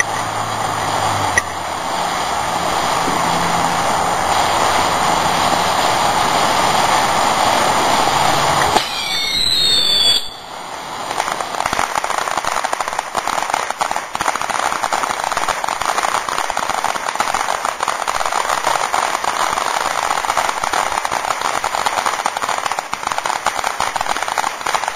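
Firework fountain spraying with a steady hiss, then about nine seconds in a couple of brief whistles that glide up and down, followed by dense crackling that carries on.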